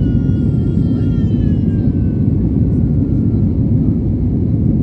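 Airliner cabin noise: a steady, loud low rumble of the jet engines and airflow heard from inside the cabin. A faint high whine sounds over it, falling slightly in pitch and fading out about three and a half seconds in.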